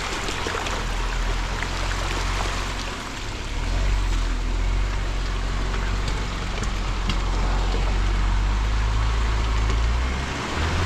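Jeep Gladiator Rubicon crawling along a rough dirt trail: a steady low engine rumble under a continuous rushing hiss of tyres and ground noise. The engine note eases off briefly about three seconds in and again near the end.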